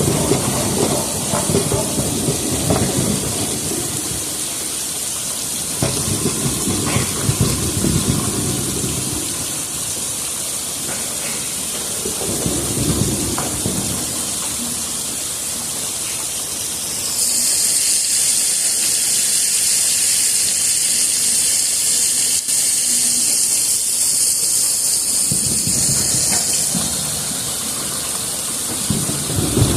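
Sweet potato washing machine running with water spraying in a steady hiss, and a lower rumble that swells and fades every few seconds. A louder, higher hiss of spray comes in a little past halfway and stops a few seconds before the end.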